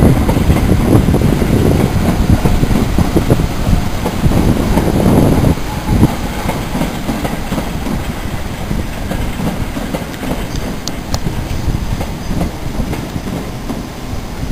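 Electric multiple-unit passenger train running along the tracks, its wheels clicking over the rail joints. Loudest for the first five seconds or so, then it eases to a steadier, lower running sound.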